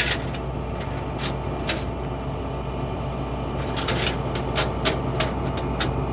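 A flatbed tow truck's engine running with a steady low drone, heard from inside the cab, with scattered sharp ticks and clicks over it.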